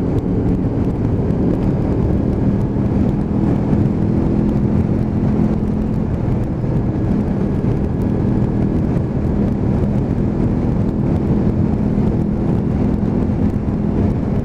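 Honda VFR motorcycle engine running at a steady cruise, its note holding even with no revving, mixed with rushing wind noise.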